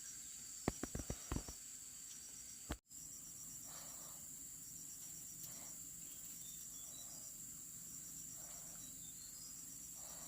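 Insects chirping in steady, regular trains of short high pulses over a constant high hiss. A quick run of sharp clicks comes about a second in.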